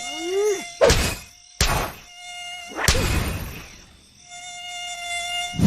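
Cartoon mosquito buzz, a steady whine that stops and starts, broken by three sharp noisy swishes or swats about a second apart.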